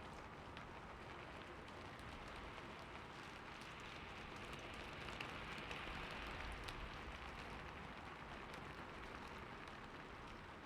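Steady rain falling, with many separate drops ticking through the hiss. It swells a little louder about halfway through, then settles back.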